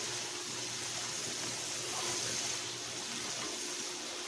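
Chicken hearts sizzling in hot olive oil in a frying pan, a steady hiss as they sauté.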